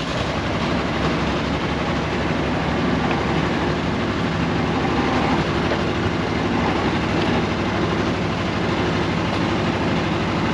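Air-cooled Deutz diesel engine of a 1970s RM.80 excavator running steadily.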